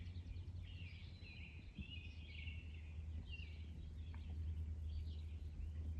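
Songbirds singing, with repeated short warbling phrases, over a steady low rumble.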